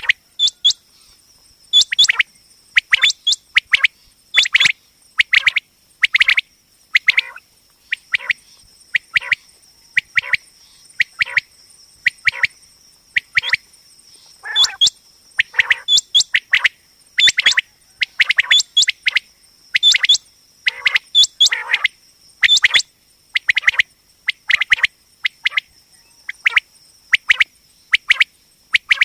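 Common quail calling: sharp, liquid notes in quick clusters of two or three, repeated about once a second, the loud repetitive call used to lure quail when hunting.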